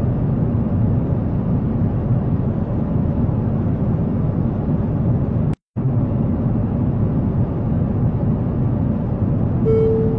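Steady low rumble of an airliner in flight, heard from the cabin, cutting out for a split second about halfway through. A clear tone starts near the end.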